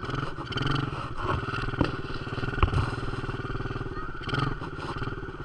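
Dirt bike engine running steadily, with a couple of short knocks about two seconds in.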